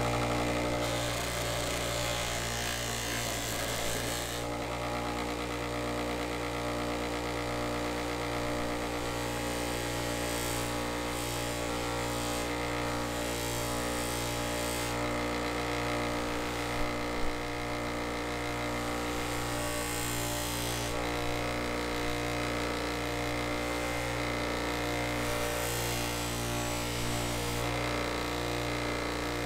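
Electric power tool running steadily with a constant motor hum, a high hiss over it growing and fading several times as it works the material.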